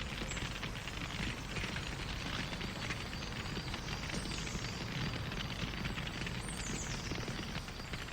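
Wood fire crackling: a dense, steady stream of small pops and snaps over the low rumble of the flames.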